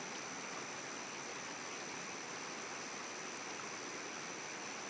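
A river flowing: a steady, even rushing, with a thin high steady tone above it.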